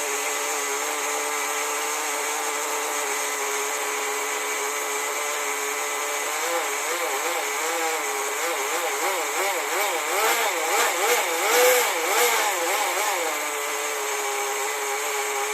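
GO .15 glow-fuel nitro engine running during its break-in. It holds a steady idle, then from about six seconds in its pitch rises and falls in quick repeated throttle blips for several seconds before settling back to the steady idle. It is only lightly revved, as suits a freshly rebuilt engine being run in.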